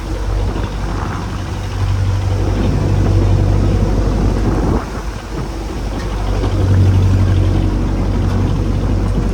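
A small fishing boat's engine running at sea with a steady low drone. It grows louder, drops off abruptly about five seconds in, then swells again.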